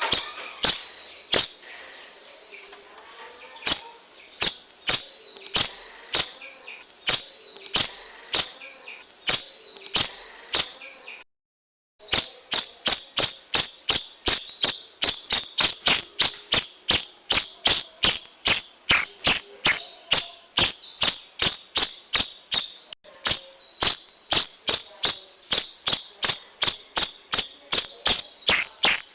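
A small songbird repeating a sharp, high chirp, about one and a half times a second at first, then faster at about three a second after a brief cutout about eleven seconds in.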